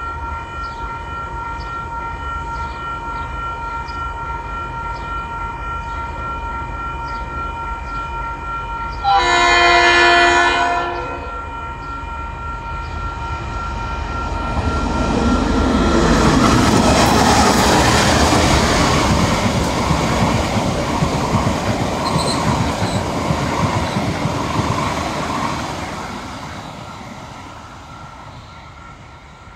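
Level-crossing warning bells ringing steadily. About nine seconds in, a diesel locomotive's horn sounds one blast of about two seconds. The passenger train then passes at speed, a loud rush of engine and wheels on the rails that builds, peaks and fades away as the last carriage goes by.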